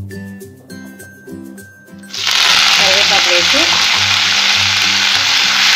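Soft background music, then about two seconds in a sudden loud sizzle as freshly washed curry leaves go into hot oil in a pan, frying steadily from then on.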